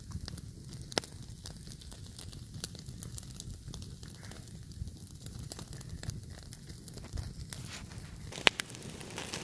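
Wood campfire crackling, with scattered small pops over a low rumble and one sharp, louder pop near the end.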